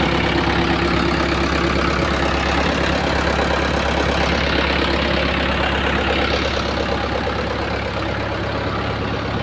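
Tractor engine running steadily, driving a PTO-mounted water pump.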